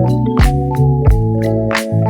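Background music: sustained organ-like keyboard chords with a steady beat of percussive hits.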